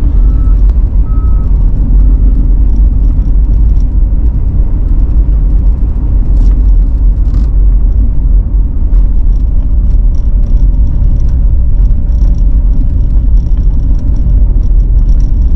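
Steady low rumble of a car driving, heard from inside the cabin: engine and tyres on a bumpy, snow-covered road.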